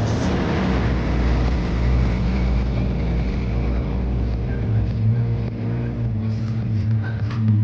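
A power tool's motor running steadily: a low hum under a constant rush of noise.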